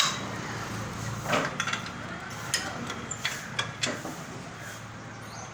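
Metal hand tools clinking and knocking against metal engine parts: several sharp, irregular clinks with a short ring, during a motorcycle engine strip-down.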